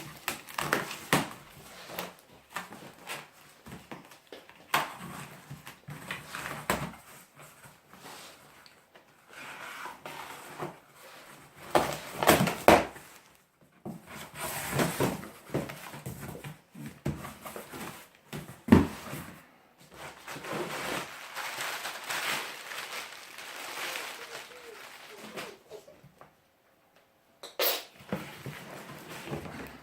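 Irregular knocks, clicks and rustling of things being handled, in bursts with short pauses, briefly falling quiet near the end.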